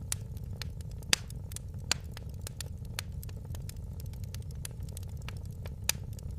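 Wood fire crackling in a fireplace: a steady low rumble of the flames with frequent sharp pops and snaps. The loudest pops come about a second in, just before two seconds and near the end.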